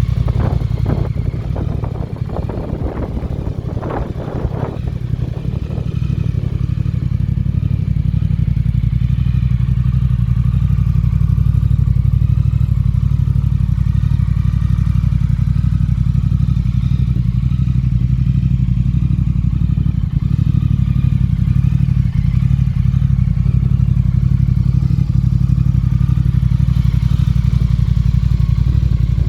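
Triumph Thruxton R's 1200 cc parallel-twin engine idling steadily through aftermarket Vance & Hines exhausts, a deep low note. Over the first five seconds or so there is some clattery mechanical noise on top of the idle.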